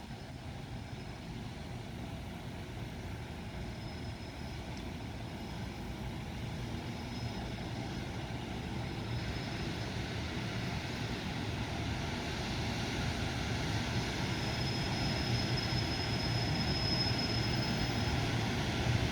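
Freight train approaching, its rumble growing steadily louder, with a faint thin high ringing coming and going in the second half.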